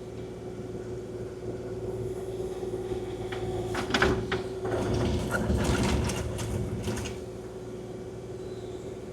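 Kubota KX040-4 mini excavator running steadily, a constant hydraulic whine over the diesel engine. From about three and a half to seven seconds in comes a run of knocks and scrapes as the bucket works the gravel and sod.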